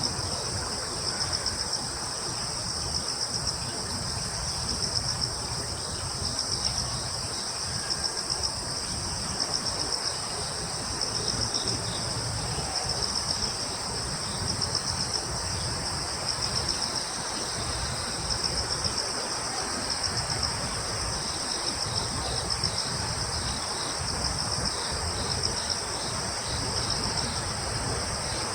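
A chorus of crickets and other insects trilling steadily in two high-pitched layers, the lower one swelling in short pulses every second or two. A low, steady rumble runs underneath.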